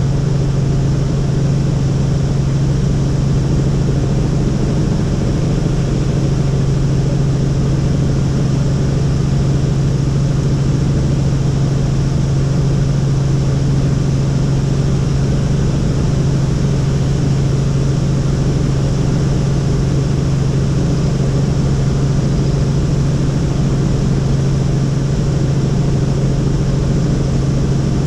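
Helicopter running steadily in flight, a loud constant drone with a strong low hum.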